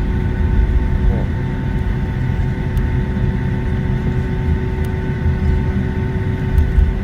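Cabin sound of a Boeing 757-200 taxiing: its engines running at taxi power, a steady low rumble with several steady whining tones above it.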